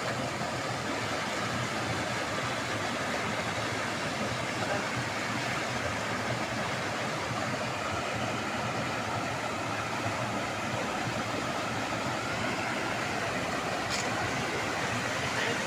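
Kakochang Waterfall's falling water rushing steadily, an even wash of noise with no pauses. A faint click sounds near the end.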